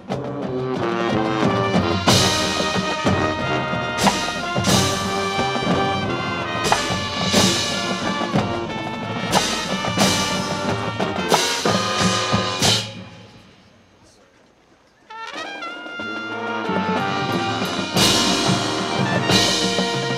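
High school marching band playing its field show: brass with percussion, punctuated by loud accented hits. About thirteen seconds in the band fades into a short near-silent pause, then the brass comes back in with rising pitch bends and builds up again.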